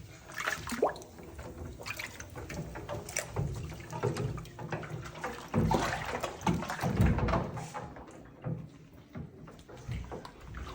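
Bath water splashing and dripping in irregular bursts as a monkey moves about in a small tub, busiest and loudest a little past halfway.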